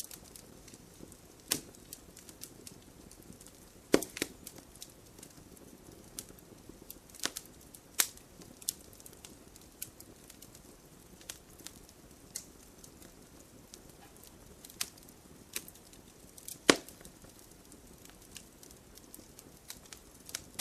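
Wood fire crackling and popping: irregular sharp snaps over a low steady hiss, with loud pops about 4, 8 and 17 seconds in.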